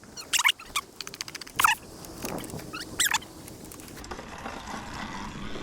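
Cheap electric bike's suspension and frame squeaking and rattling as it rides over bumps: three short high squeaks, a quick run of clicks about a second in, over a low rumble.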